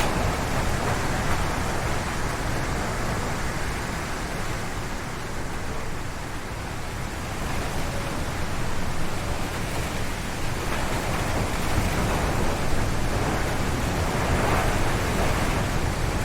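Strong wind gusting through a forest, roaring in the trees, easing briefly about halfway through and then building again.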